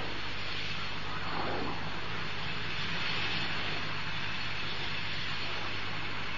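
Twin turbojet engines of a Messerschmitt Me 262 replica running, a steady jet noise with a slight swell about three seconds in.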